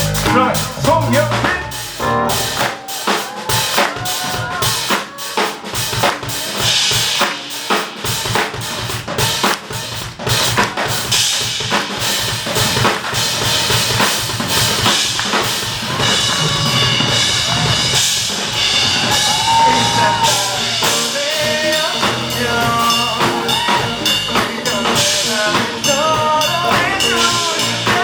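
Live rock band playing an instrumental passage, with the drum kit to the fore (snare rimshots and bass drum) under bending lead guitar lines.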